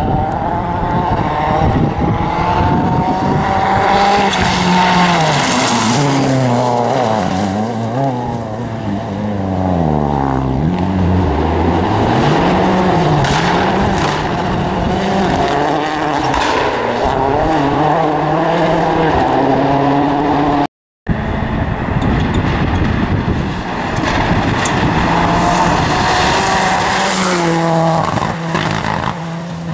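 Rally car engines revving hard, the pitch climbing and dropping again and again as the cars change gear and brake through the stage. A brief silent dropout about two-thirds through, then another car revving.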